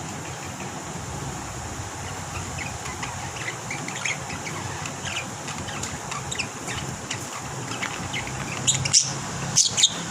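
Lovebirds chirping rapidly, with a few louder, shrill calls near the end.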